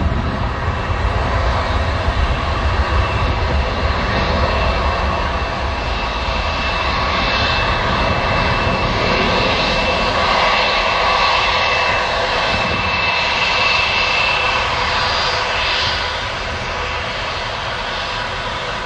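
Airbus A300-600 airliner's jet engines running: a steady rushing noise with a thin high whine held through the middle, easing off a little near the end.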